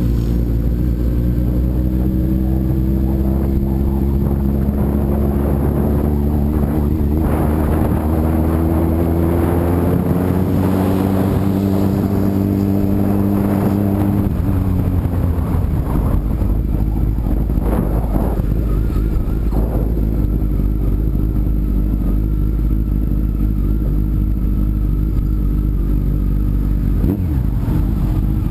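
Sport motorcycle engine under way, its pitch climbing slowly for about fourteen seconds, then dropping away and running on lower and steadier, with a rushing noise over it.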